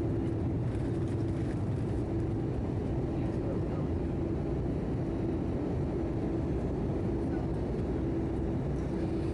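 Steady in-flight cabin noise of an Airbus A319-111 with CFM56 engines, heard inside the cabin: a low rumble of engines and rushing air with a steady mid-pitched hum over it.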